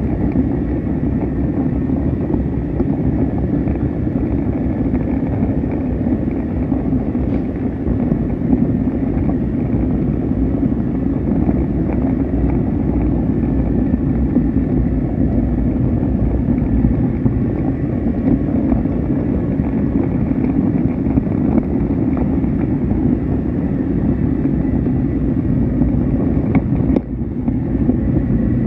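A train running steadily: a continuous rumble with a faint steady high whine above it, dipping briefly near the end.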